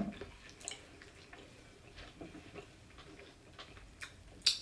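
Close-miked eating sounds: scattered soft mouth clicks and chewing, with one sharper, louder click about four and a half seconds in.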